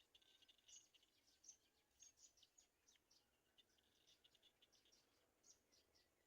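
Faint, rapid high-pitched bird chirps: many short notes in quick succession, busiest in the first three seconds and thinning out after.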